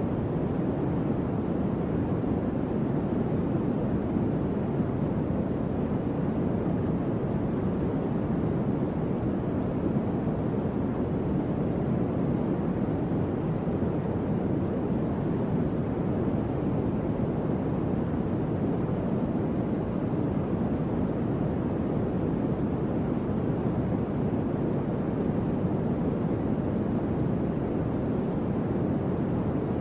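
Electric fan running steadily: an even, low rush of moving air with no changes or clicks.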